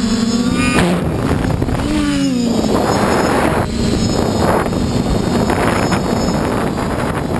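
FPV quadcopter's brushless motors whining with a steady pitch that cuts off suddenly just under a second in. A quick sweep in motor pitch follows around two seconds in, then mostly wind rushing over the onboard microphone in flight.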